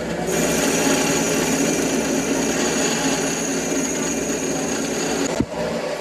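Metalworking machine running: a steady high whine over a rasping, grinding noise comes in about a quarter second in and cuts off suddenly just after five seconds, followed by a single short knock, over the constant hum of other machinery.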